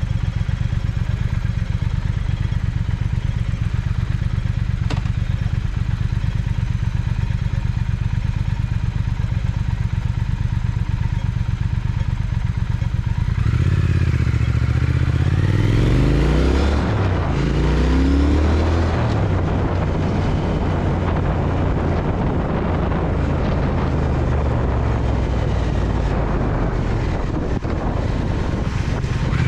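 Triumph Speed Twin's parallel-twin engine running steadily at low revs for about thirteen seconds. It then pulls away, the revs rising and dropping through a few upshifts, and settles into cruising with wind and road noise.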